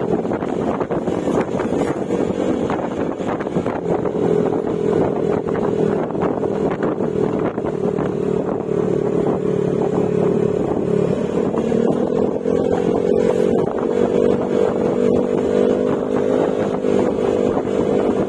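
Yamaha Mio Gravis scooter's engine running at steady cruising speed through an aftermarket Akrapovic exhaust with silencer. The engine note rises a little about 11 seconds in, holds, then eases back near the end.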